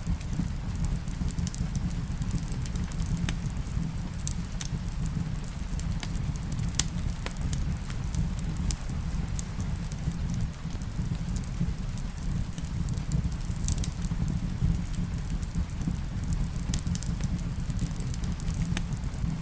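Wood fire crackling in a fireplace: irregular sharp pops and snaps over a steady low rumble, mixed with a steady rain background.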